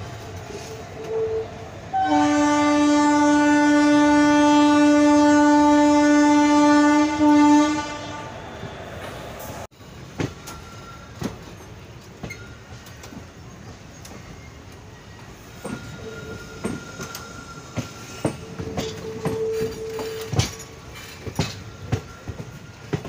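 Train horn sounding one long, steady blast of about six seconds, starting about two seconds in, as the train pulls out of the station. Then the coach wheels click irregularly over the rail joints as the train rolls slowly on.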